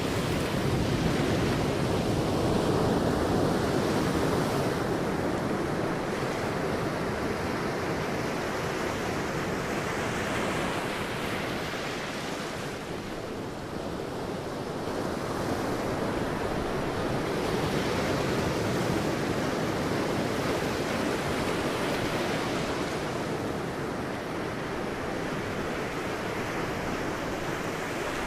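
Sea waves breaking and washing onto a beach: a continuous rush of surf that swells and eases every few seconds, softening briefly about halfway through.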